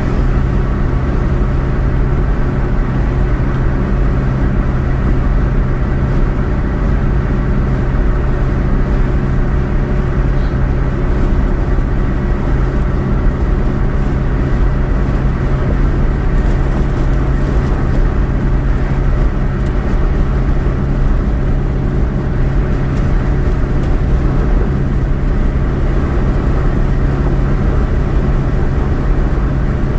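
Car driving at a steady speed: engine and road noise, an even drone with a constant low hum.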